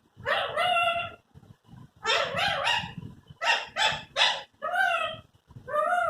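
Pet talking parrot giving a string of short, high-pitched calls and squawks with brief pauses between them.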